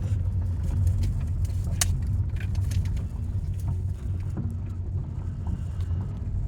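A motor vehicle's engine running steadily, a low hum with a few small clicks and knocks over it.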